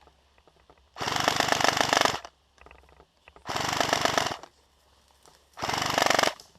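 Airsoft rifle firing three full-auto bursts of rapid clicking shots, the first about a second long, the last shorter.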